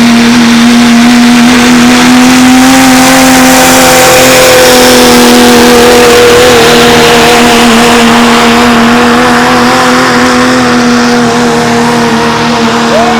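A pulling truck's engine running flat out under load as it drags the weight sled, very loud, holding a steady high pitch with a slight dip about halfway through and easing off a little later on.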